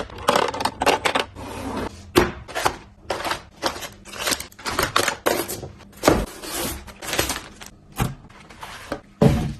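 Irregular knocks, taps and clatter of food packages and containers being handled and set down, with some rustling of packaging in between.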